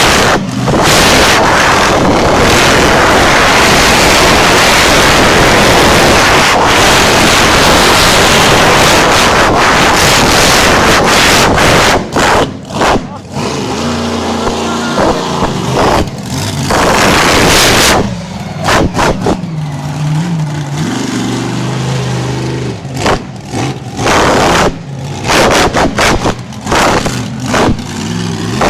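Monster truck engine running very loud at high revs, the sound saturating for about the first twelve seconds. It then drops back, with the engine note rising and falling and short loud surges of throttle.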